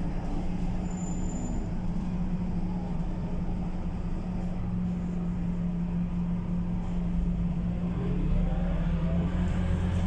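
Scania K230UB bus's diesel engine running steadily, with a rising tone near the end as it picks up speed.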